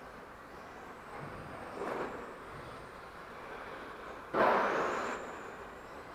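Electric 1/10 touring RC cars, including an Xray T4'21 with a 21.5-turn brushless motor, running on a carpet track: motor and drivetrain whine with tyre noise, swelling as cars pass close, faintly about two seconds in and loudly and suddenly about four seconds in.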